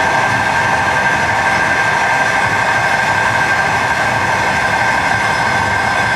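Running noise inside a moving passenger train: a steady rumble of the running gear with a steady high whine over it.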